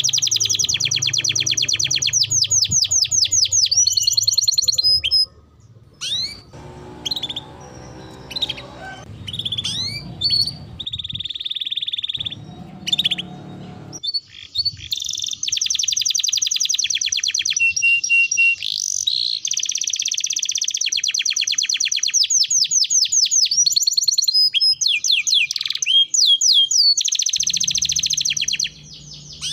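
Domestic canary singing energetically: long, fast trills of rapidly repeated notes, broken by a quieter stretch of short whistled notes and slides from about five to fourteen seconds in before the rapid trilling resumes.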